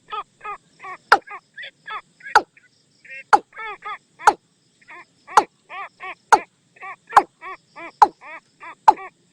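Watercock call played as a hunting lure: a steady run of short hollow notes, about three a second, with a sharper, louder click roughly once a second.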